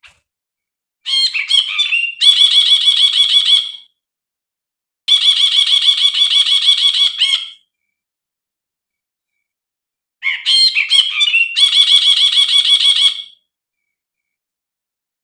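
A brinji (bulbul) singing three phrases of rapid, chattering trills, each about two to three seconds long, with pauses between them. The first and last phrases open with a few varied notes before the fast trill.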